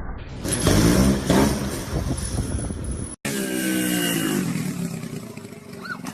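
Motorcycle engine revving up and down, then a sudden cut about three seconds in to another engine whose pitch falls away as it slows.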